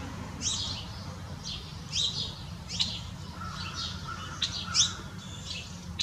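Songbirds chirping: a series of short, sharp, downward-sliding chirps, roughly two a second, with a lower whistled note joining midway, over a steady low background rumble.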